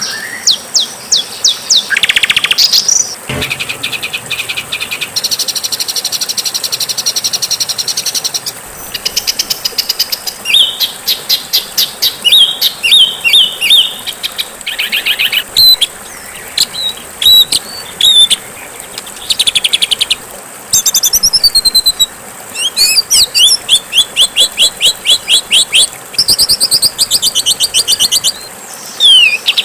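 Songbirds singing a rapid succession of high, harsh trills, chirps and chattering phrases, one after another with short gaps. This is a compiled song-tutor (masteran) recording of rough, aggressive bird song.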